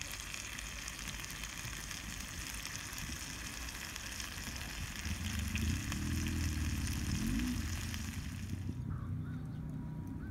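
Food frying in a cast iron skillet over a wood fire, a steady sizzling hiss that stops abruptly near the end. A low drone swells under it for a few seconds in the middle.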